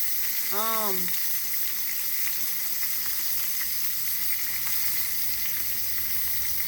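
Flour-dusted chicken pieces frying in hot oil: a steady sizzle with small scattered crackles.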